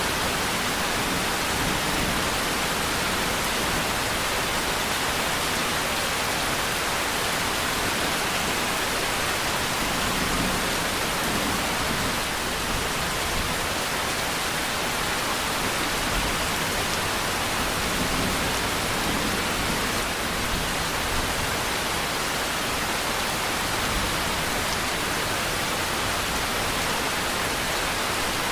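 Steady rain, an even hiss that does not change and has no separate drops or thunder standing out.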